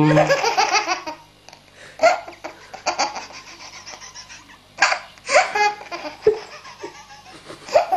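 Baby laughing hard: bouts of rapid, pulsing belly laughter in several bursts with short pauses between them.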